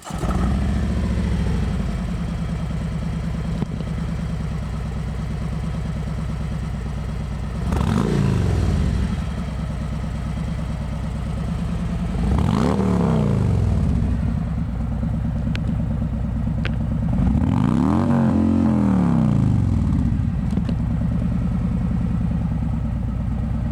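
2017 Harley-Davidson Street Glide's Milwaukee-Eight V-twin, breathing through Bassani DNT 4-inch straight-can slip-on mufflers, fires up and idles with a loping exhaust note. It is blipped up and back down a few times, about 8, 12 and 18 seconds in.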